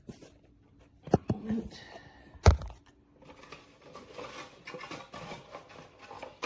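Handling noise from fitting a new bag into an upright vacuum's bag compartment: a few plastic clicks about a second in, a sharp knock about two and a half seconds in, then steady rustling and scraping.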